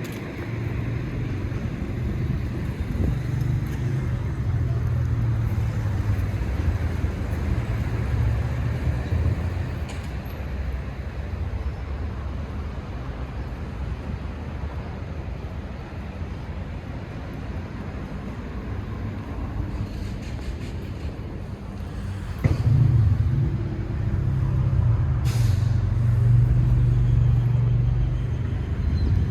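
Fiat Toro pickup's engine running steadily, a low hum that eases off after about ten seconds and rises again sharply about three-quarters of the way through.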